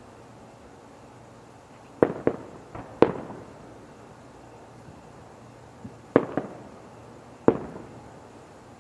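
Aerial firework shells bursting: a pair of bangs about two seconds in, the loudest about three seconds in, another pair around six seconds, and one more near the end, each with a short echoing tail.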